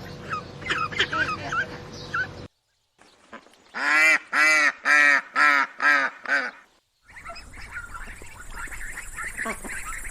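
Ducks quacking: a flock's chatter of many short calls, then, after a brief break, six loud quacks about half a second apart, then more flock chatter over a steady hiss.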